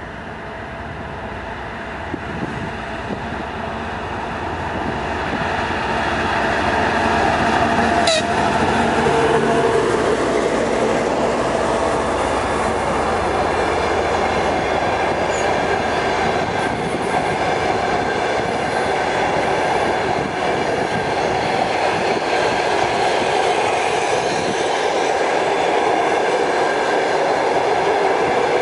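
TEP70 diesel passenger locomotive pulling a passenger train away, its diesel engine running under load and growing louder over the first several seconds. This is followed by the steady noise of the coaches rolling past on the rails, with one sharp click about eight seconds in.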